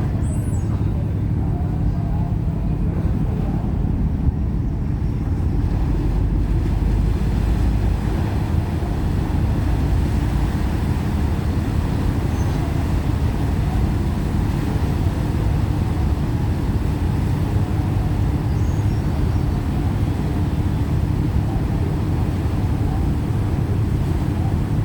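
Roll-on/roll-off ferry's diesel engines running with a steady, loud low drone.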